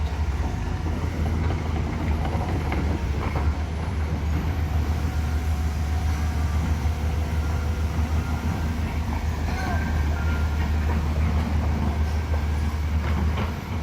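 Heavy vehicle engine running with a steady low drone under a wash of traffic noise.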